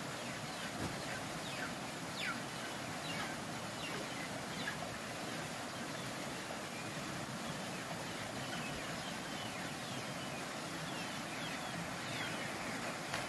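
Ducklings peeping: many short, falling peeps, scattered irregularly over a steady background hiss.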